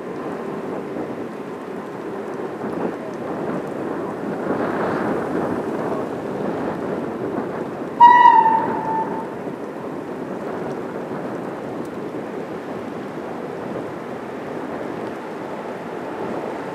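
A steady low rumbling noise, with one short, loud pitched blast that slides slightly down about eight seconds in.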